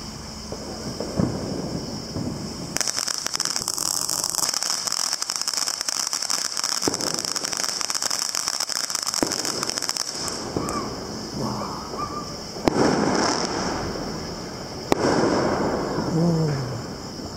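Consumer fireworks going off at close range. A fountain hisses, then from about three seconds in a firework cake crackles with dense rapid pops for several seconds. Later, two sharper bangs come about two seconds apart.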